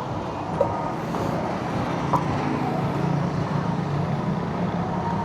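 Vehicle riding along a road: steady engine hum with road and wind noise, and a brief click about two seconds in.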